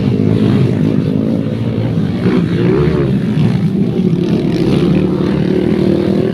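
Motocross motorcycle engines running steadily, with a slight rise in pitch about two and a half seconds in.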